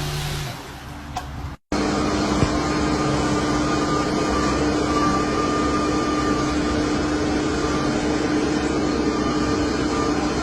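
MAN TGS dump truck's diesel engine running steadily, with a constant whine. The sound cuts out for a moment about one and a half seconds in, then runs on evenly.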